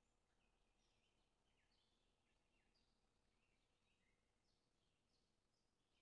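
Near silence with very faint birds chirping: a quick, continuous series of short, falling chirps.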